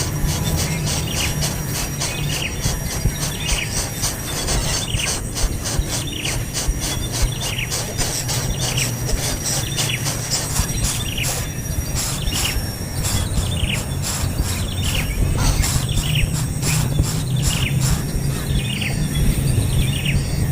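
Young bird chirping again and again, in short falling chirps about once a second, over a steady low hum and a thin high steady tone.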